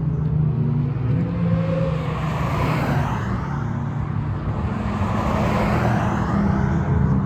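A line of Ferrari supercars cruising past in a parade, their engines making a steady low drone. Two cars pass close, about three and five and a half seconds in.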